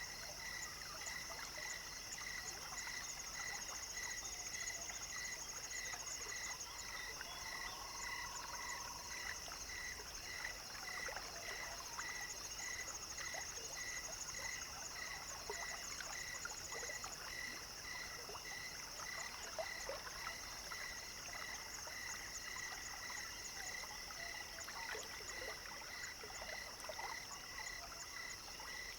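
An evening chorus of frogs and insects: one call repeats steadily, a little more than once a second, over a continuous high-pitched insect buzz. A short trill cuts in briefly about eight seconds in.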